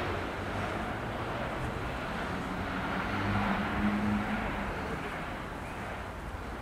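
Intermodal freight train rolling past at a distance: a steady rumble of wheels on rails, with a low hum that swells from about three seconds in and then fades.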